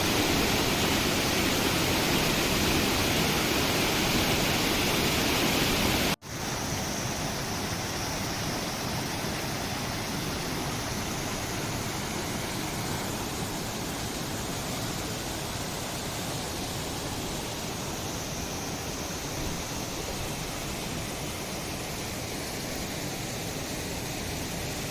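Steady rush of a waterfall. About six seconds in it cuts off abruptly and picks up again a little quieter and softer.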